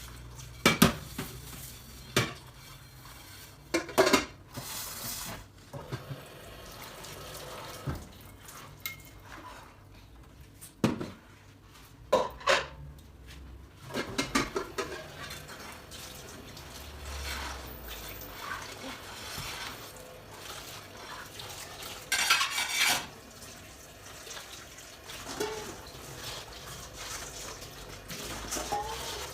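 Dishes and cutlery being handled, with irregular sharp clinks and knocks of crockery and metal, and a couple of short rushing noises about four seconds in and again near the end.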